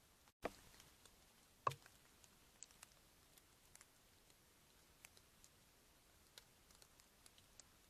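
Faint, scattered clicks and ticks at an irregular pace, with two louder knocks, about half a second and a second and a half in.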